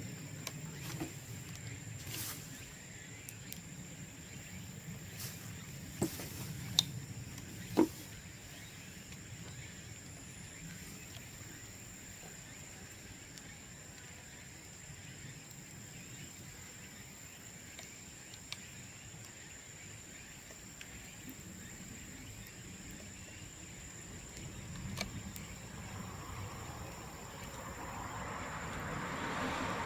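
Bamboo burning in an open bonfire: a low rushing of the fire with scattered crackles and three sharp pops about six to eight seconds in, typical of bamboo sections bursting in the heat. A rushing swell builds near the end, over a steady high-pitched hum.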